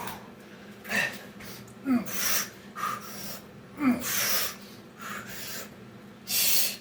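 A man breathing hard from exertion during a burpee workout: about six loud, gasping breaths and forceful exhales, two of them with a short grunt.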